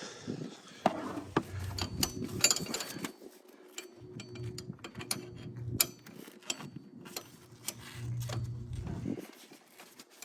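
Metal wrenches clinking and knocking as they are handled, a string of irregular sharp clicks.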